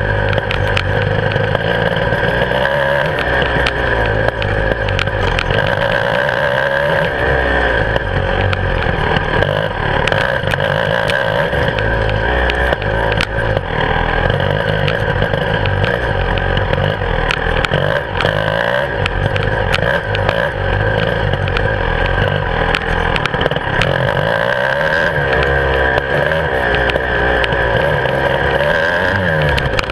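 Beta 300RR two-stroke enduro motorcycle engine running hard, its pitch rising and falling as the rider works the throttle along a dirt trail, with knocks and rattles from the bike over rough ground. Heard close up from the handlebars, with wind noise.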